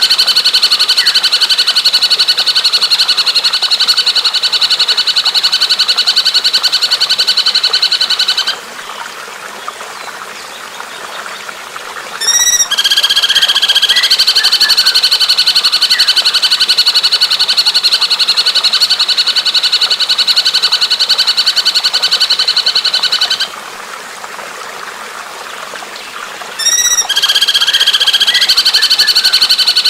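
Bird song played as a training recording: very fast, even trills lasting about eight to eleven seconds each. Twice they break off for a few seconds, and a short quick run of high notes leads back into the next trill. The pattern repeats like a loop.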